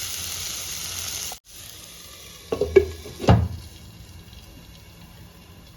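Tomato and spice masala sizzling in oil in a frying pan. After about a second and a half the sizzle drops away, and a few short knocks follow near the middle.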